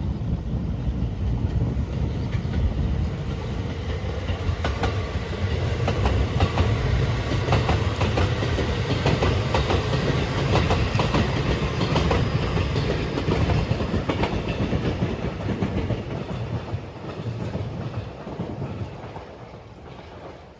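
A train passing close by, its wheels clacking over rail joints over a steady rumble; the clacks are thickest in the middle and the sound fades away over the last few seconds.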